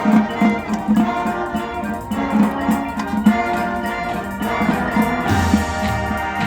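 High school marching band playing its show music, with a regular low rhythmic pulse under sustained instrumental tones; the sound grows fuller and brighter about five seconds in.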